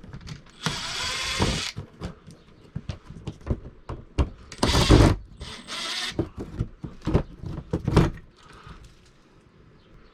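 Handling noises from wiring and parts being moved by hand: a run of sharp clicks and knocks with three rustling, scraping bursts, the loudest about five seconds in, then quieter near the end.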